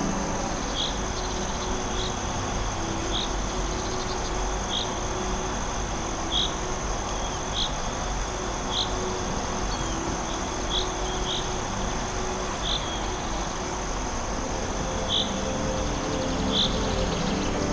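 Forest ambience: a steady high insect drone, with a short cricket-like chirp repeating every second or two, over a soft even hiss.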